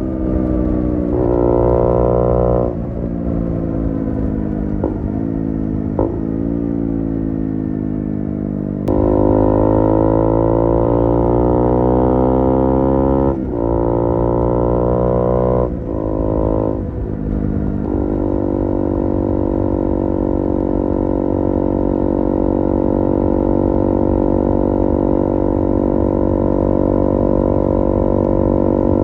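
KTM Duke 125's single-cylinder four-stroke engine through an IXIL IXRACE MK2 aftermarket exhaust, running with its revs rising and falling and several sudden drops in pitch, then holding a steady note for the last third.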